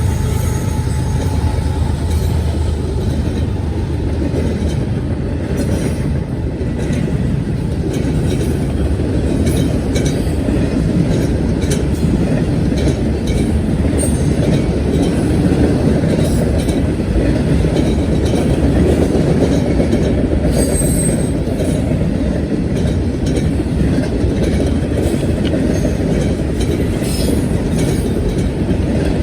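BNSF freight cars rolling steadily past, a continuous rumble of wheels on rail with scattered clicks as the wheels cross rail joints.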